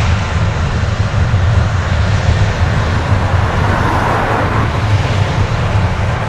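Boeing C-17A transport jet's four turbofan engines running, a loud steady rumbling jet noise that swells slightly about two-thirds of the way through.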